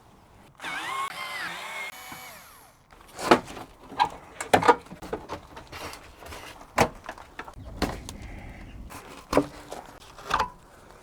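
Workshop work on a car's underside: a power tool runs for about two seconds with a wavering, gliding pitch, then a series of sharp knocks and clatters from parts and tools being handled.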